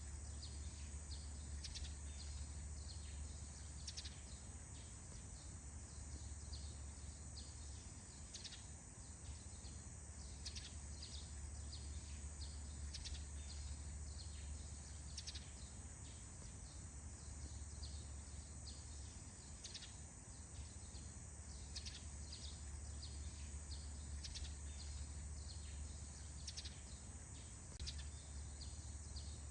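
Birds chirping in a forest dawn chorus: many short calls, one after another, over a steady high hiss and a low hum that comes and goes.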